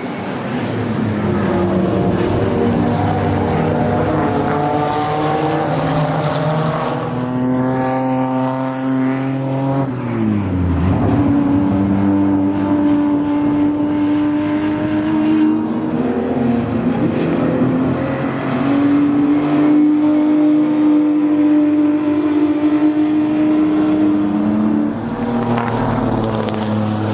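Ferrari 250 GTO's 3.0-litre V12 racing engine running hard, holding a steady pitch for several seconds at a time and stepping up and down between them, with a sharp drop and recovery about ten seconds in.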